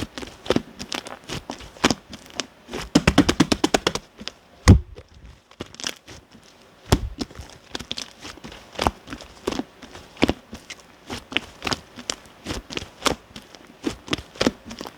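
Clear slime mixed with shaving foam being squished and pressed by hand, giving irregular sticky clicks and pops. About three seconds in there is a quick run of clicks, roughly ten a second, and a louder pop comes just before five seconds.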